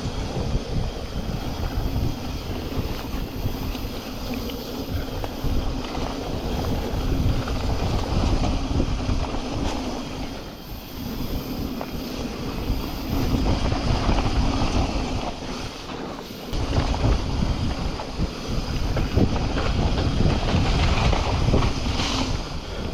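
Wind rushing over an action camera's microphone and a mountain bike's tyres rolling and rattling over a wet dirt trail during a descent. The noise eases briefly about ten and sixteen seconds in.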